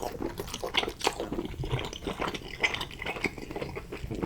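Close-miked wet chewing and mouth smacking of a person eating saucy, cheesy pasta, a quick irregular run of small clicks and squelches.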